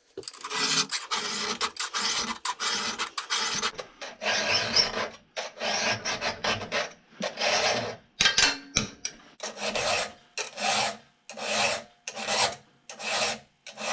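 Round chainsaw file rasping across a cutter tooth of a Husqvarna 51's .325-pitch chain, hand-filed in repeated strokes: quick short ones at first, then longer strokes about one a second. Heavy filing to take off a lot of metal from a tooth badly dulled by being run into snow and mud.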